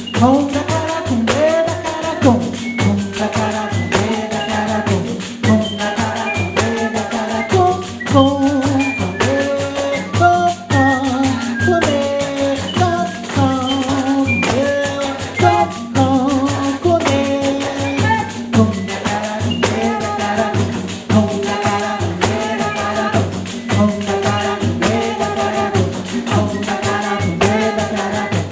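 Live music: a pandeiro ensemble playing a fast, steady rhythm under a melody line.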